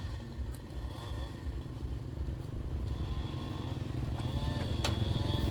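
A small engine running with a low, pulsing sound, growing steadily louder.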